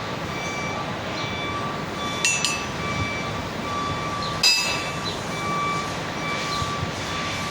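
Two sharp metal-on-metal clanks with a bright ring, about two seconds in and again, louder, past the four-second mark, over steady workshop noise. A short electronic beep repeats in the background.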